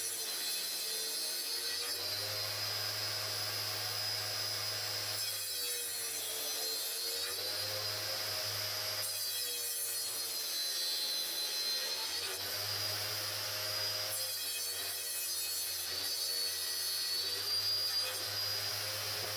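A power saw cutting, with a steady motor hum under the cutting noise; the sound shifts every few seconds from one cut to the next.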